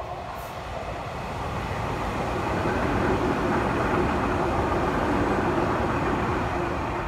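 Electric commuter train passing close by, a rumble of wheels on the rails. It grows louder over the first three seconds as the train draws level, holds steady while the cars go past, and begins to fade near the end.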